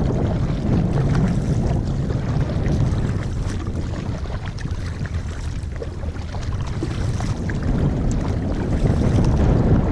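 Strong wind buffeting the microphone, a heavy low rumble that swells and eases, with faint small splashes and knocks from the kayak on the water.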